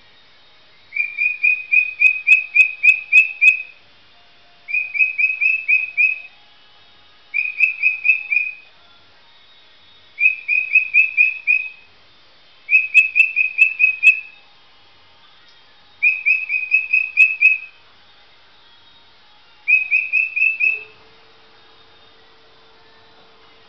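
A pet parrot calls in bursts of quick, repeated, rising whistled notes: seven bursts of one to two and a half seconds each, with short pauses between them. A steady low hum starts near the end.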